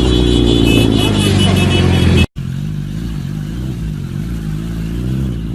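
Motorcycle engine running loud and fairly steady, cut off abruptly a little over two seconds in. It is followed by another motorcycle engine, quieter, its revs rising and falling about once a second.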